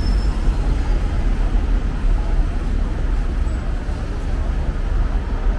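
Steady city street traffic noise with a heavy low rumble.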